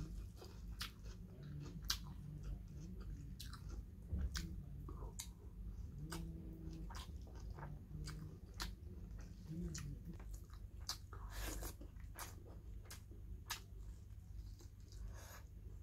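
Close-miked mouth sounds of eating pork and rice by hand: faint chewing with irregular wet clicks and smacks, about one or two a second.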